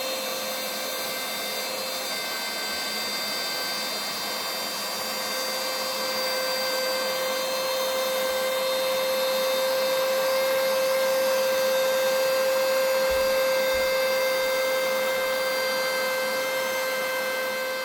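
Small rechargeable car vacuum cleaner running steadily: a high motor whine with overtones over a rush of air, growing a little louder partway through.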